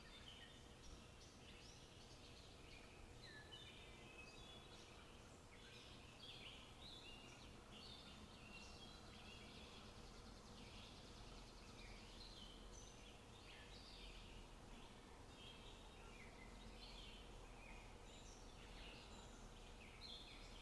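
Faint songbirds chirping, many short overlapping calls, over a low steady background hiss.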